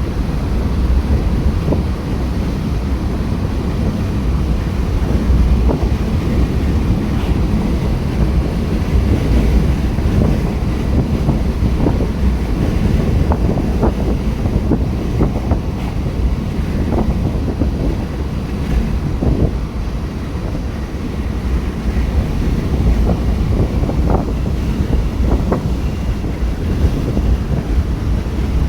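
Strong thunderstorm wind buffeting the microphone: a loud, steady low rumble with scattered short crackles.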